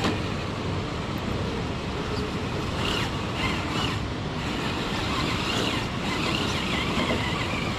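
Traxxas TRX-6 RC crawler's electric motor whining faintly, its pitch wavering as it works up wet rock, under a steady rushing noise.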